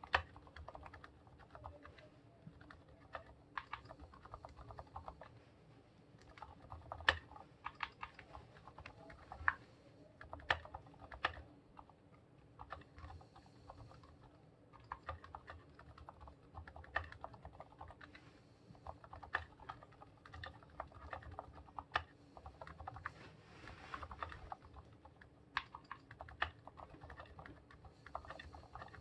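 Typing on a Monstargear Ninja 87 aluminium-case mechanical keyboard with fully lubed Gateron silent yellow linear switches: a steady run of soft, quiet keystrokes with an occasional sharper, louder stroke.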